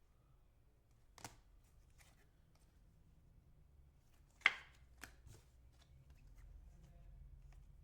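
Basketball trading cards being handled and flicked through one by one, a few sharp clicks and snaps of card on card, the loudest about four and a half seconds in.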